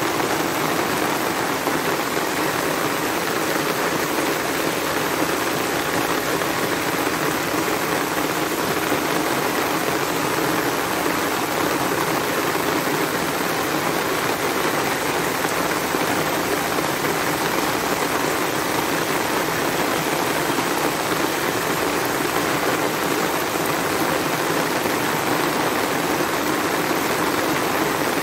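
Heavy rain pouring steadily, a constant even hiss.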